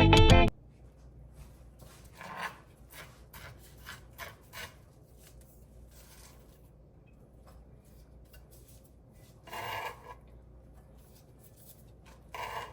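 Guitar music ends about half a second in, followed by faint kitchen handling sounds: light scrapes, rubbing and scattered clicks, with a couple of brief louder knocks near the end.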